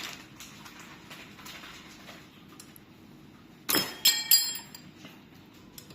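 Three quick metallic clinks with a short ringing tail about two-thirds of the way in, metal striking metal while the disc brake caliper bolts are being tightened; faint handling noise before them.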